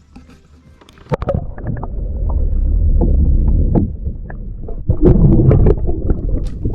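Low rumbling handling noise with scattered knocks and clicks, from movement in a fishing kayak while a small largemouth bass is being put back in the water.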